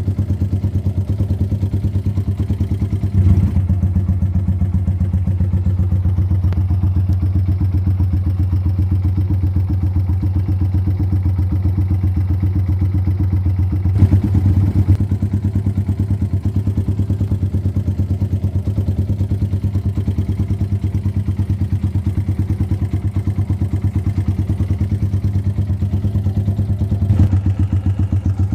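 Kawasaki Eliminator motorcycle engine with its original exhaust, idling steadily with an even, low pulse. The throttle is blipped briefly three times: about three seconds in, midway, and near the end.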